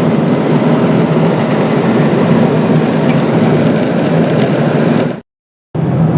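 Steady cabin noise of a Boeing 777-200ER at cruise: a constant rush of engine and airflow heard from a window seat. It cuts out completely for about half a second near the end, then carries on unchanged.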